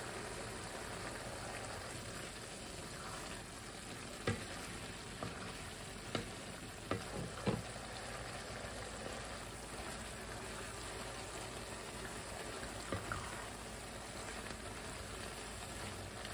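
Ground beef and diced potato sizzling steadily in a Staub enameled cast-iron skillet while a wooden spoon stirs. A few sharp knocks are heard between about four and eight seconds in, and two more near thirteen seconds.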